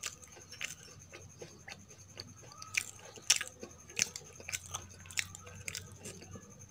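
Close-miked chewing of Indian sweets in a mukbang, with irregular sharp mouth clicks and smacks coming roughly every half second.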